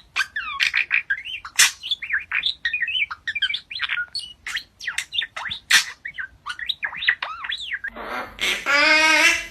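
A bird chirping and squawking in a quick, uneven run of short whistled calls and sharp cries. Near the end, a voice starts singing.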